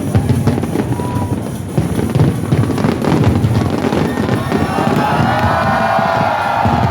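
Fireworks bursting in quick succession, a dense run of bangs and crackles, with music playing; from about two-thirds in, a held, swelling pitched sound rises over the bangs.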